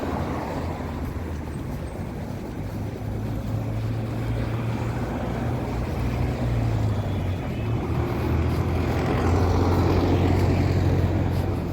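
Road traffic running past with a low rumble that swells twice, mixed with strong gusting wind buffeting the microphone.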